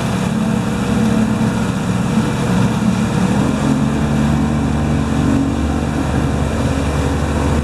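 Boat engine running steadily, getting deeper and stronger about three and a half seconds in.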